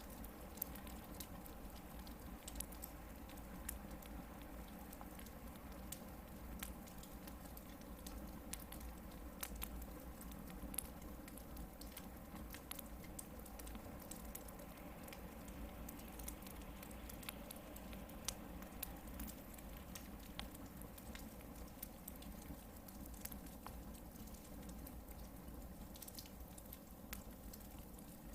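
Hardwood campfire crackling: irregular sharp pops and snaps over a steady low background.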